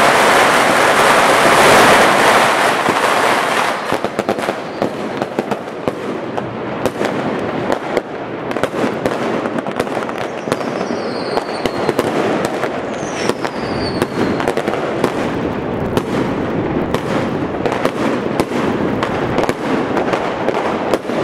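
Many fireworks going off at once: a dense, loud barrage for the first few seconds, then a constant crackle of firecrackers with many sharp bangs. Two short falling whistles sound near the middle.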